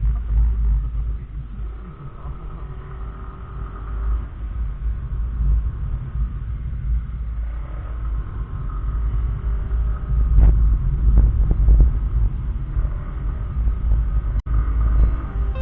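Riding noise from a SYM Joymax Z+ scooter: heavy low wind rumble on a helmet-mounted microphone with the engine running faintly underneath, and a few short knocks about two-thirds of the way through.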